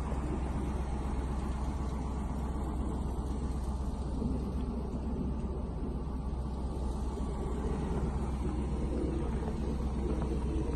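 Steady low rumble of a motor vehicle, its engine running evenly with no change in pitch.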